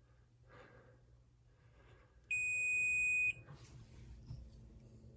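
A single steady electronic beep, about a second long, from a grow light's controller as the light is powered on.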